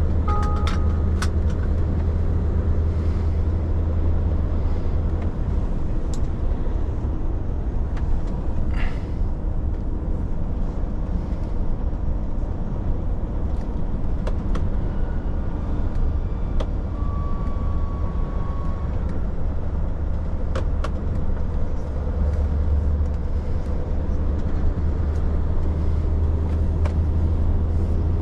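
Truck driving on the open road: a steady low engine and road drone, with occasional short clicks and rattles.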